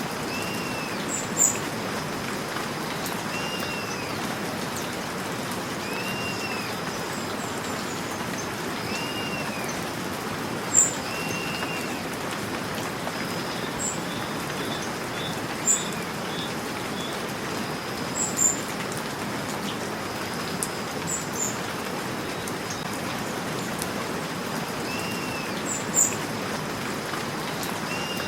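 Steady rain falling, with a bird repeating a short rising-and-falling call about every two seconds over it. A few brief, sharp high-pitched chirps stand out above the rain.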